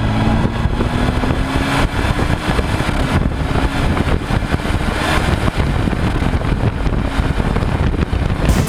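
A motor vehicle on the move: engine and road noise, steady throughout.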